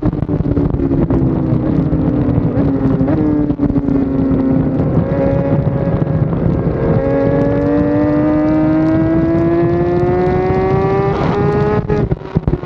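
BMW S 1000 RR racing motorcycle's inline-four engine on track: the engine note sinks in the first half, then climbs steadily under acceleration and drops suddenly near the end at a gear change.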